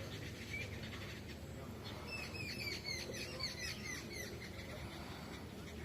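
Small birds chirping: scattered chirps, then a quick run of short repeated chirps, about four a second, from about two seconds in. A steady low background rumble runs underneath.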